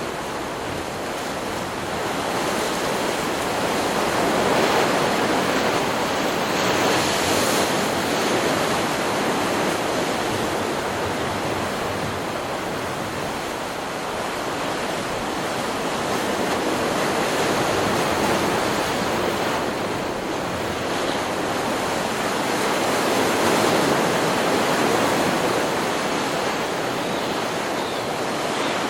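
Ocean surf from a stock beach recording: a steady rushing wash of breaking waves that swells twice, a few seconds in and again past the middle, then eases.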